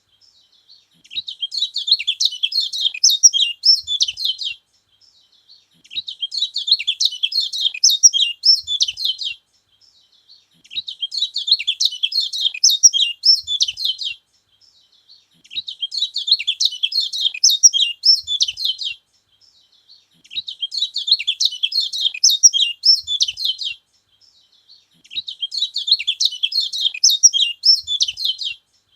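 Kecial kuning, a small yellow white-eye, singing in repeated bouts of rapid, high, twittering notes, each bout lasting about three and a half seconds with a second-long pause between, six bouts in all. Its song is said to rouse other kecial.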